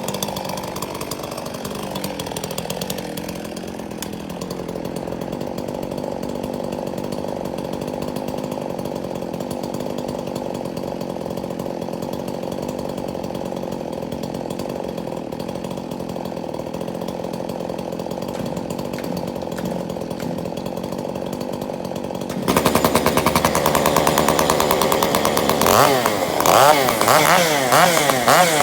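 Chainsaw running steadily. About three-quarters of the way through it suddenly gets much louder and revs up and down as it cuts.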